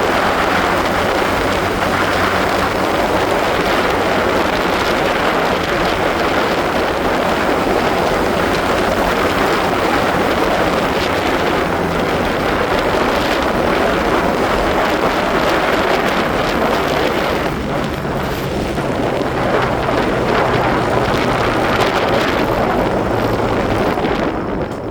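Motorcycle engine running under way, mostly covered by heavy wind noise on the microphone. The rush eases briefly past the middle and again near the end.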